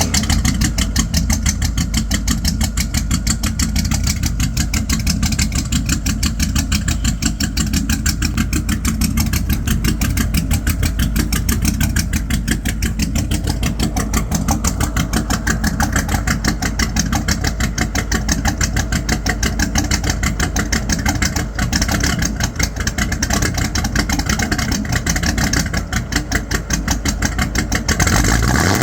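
Ford 5.0 L V8 with a B303 cam running at idle through glasspack mufflers and a 2.5-inch exhaust, a steady rapid exhaust pulse, on the engine's first start.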